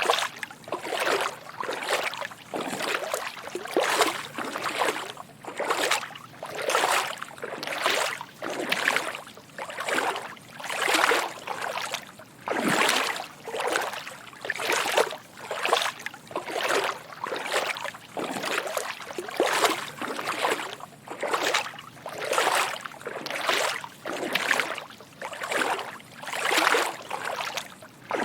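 Footsteps wading through shallow water: a soft slosh with each step, about one a second at a steady walking pace.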